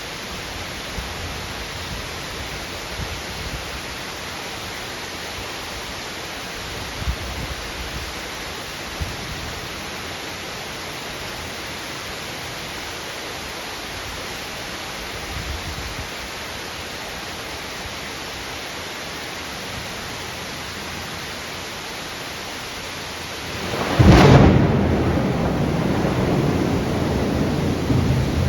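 Heavy rain pouring steadily. Near the end a sudden loud crack of thunder breaks in and goes on as a rolling rumble under the rain.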